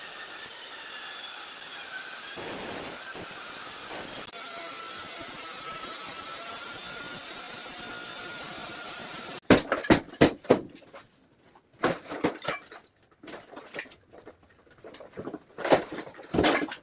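Demolition of a rotten plywood subfloor: a steady whirring hiss for about nine seconds, then a run of sharp, irregular cracks and knocks as the soggy boards are broken and pried out.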